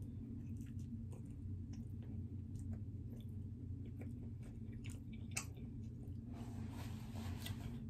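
Close-up chewing of a mouthful of pepperoni pizza, with scattered wet mouth clicks and a denser stretch of chewing noise near the end, over a steady low hum.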